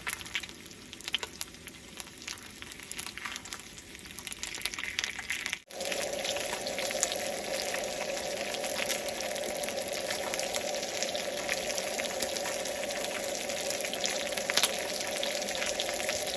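Crackling sizzle, like food frying in a pan. About six seconds in, an abrupt cut gives way to a steady rushing of running water.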